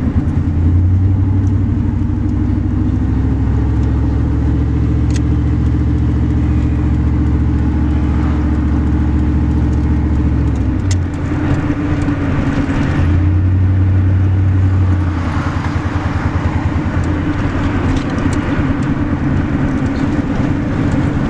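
Pickup truck's engine running steadily, with a low pulsing note that shifts about halfway through.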